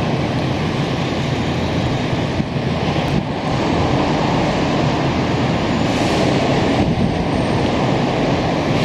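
Semboku Rapid Railway 3000 series electric train approaching the station over the points: a steady, even running noise of wheels on rail.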